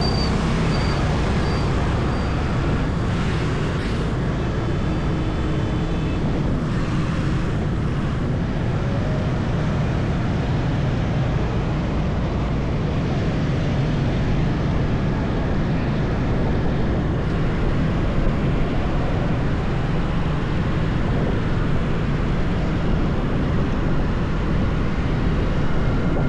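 Steady rush of wind and road noise from a motorbike riding along a highway, with its engine and the surrounding traffic mixed in.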